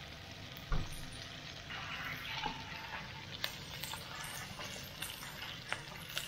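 Chicken thigh frying and sizzling in a frying pan, with a sharp knock about a second in and a few light clicks later on.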